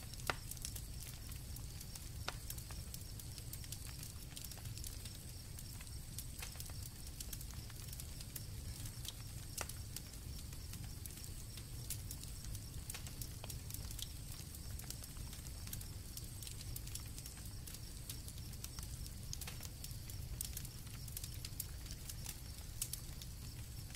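Campfire crackling, with scattered sharp pops over a low steady rumble of flame, and a steady high chorus of crickets behind it.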